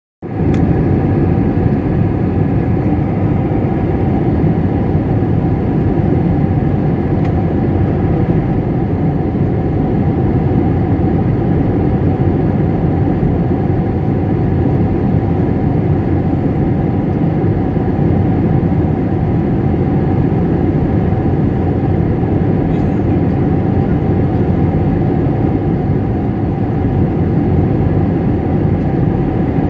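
Jet airliner cabin noise heard from inside the cabin during the approach to landing: a steady rush of engine and airflow noise with a faint steady hum on top.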